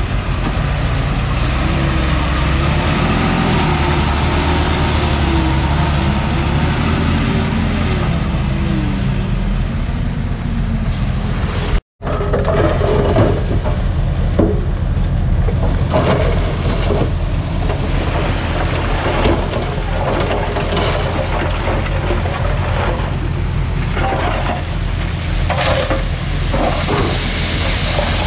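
Komatsu D51PX bulldozer's diesel engine running hard under load, its pitch rising and falling in the first half. After a brief break about twelve seconds in, scattered clanks and knocks from the tracks and blade sound over the engine.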